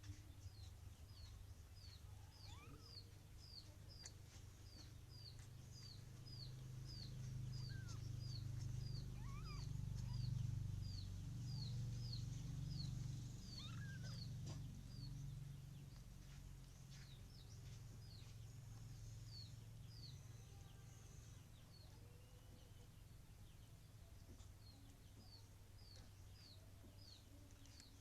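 A small bird chirping over and over: short, high, falling chirps about two a second, thinning out after the middle. A faint low rumble underneath swells in the middle.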